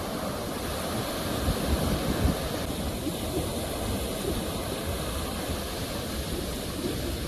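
Ocean surf washing steadily onto the shore, a continuous rushing sound that swells a little about two seconds in.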